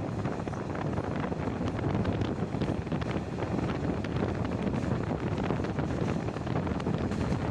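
Wind buffeting the microphone at the window of a moving passenger train, over the steady running rumble of the coaches on the track with faint scattered clicks.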